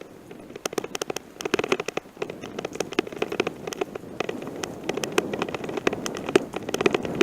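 Bicycle rolling over a rough gravel forest road: a steady crunch of tyres on stones with many irregular rattling clicks.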